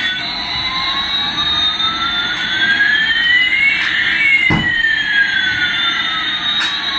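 Electronic jet-engine sound effect from a toy airliner: a hiss with two tones gliding in pitch, one rising and one falling, that cross about four seconds in and then pull apart. A short click comes just after the crossing.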